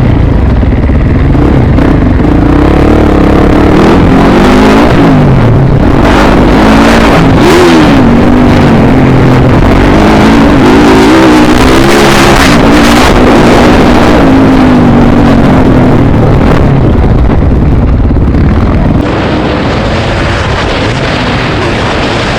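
Dirt bike engine being ridden, revving with its pitch repeatedly rising and falling as the throttle is worked, and easing off near the end.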